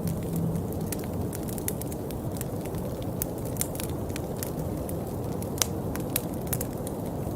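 Steady rain, a dense low wash with many sharp drops ticking irregularly close by.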